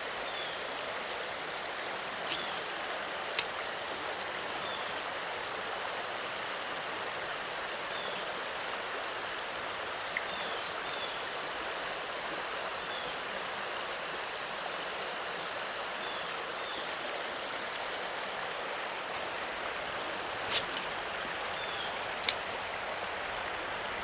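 Creek water running steadily over a shallow, rocky bed, with a few short, sharp clicks now and then.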